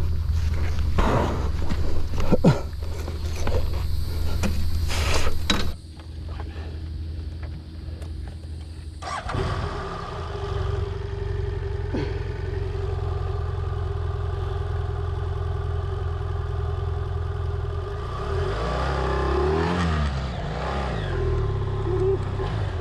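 BMW F800GS parallel-twin engine running, with clatter and knocks over the first few seconds. After a break the engine runs on steadily, its revs rising and falling a few times near the end.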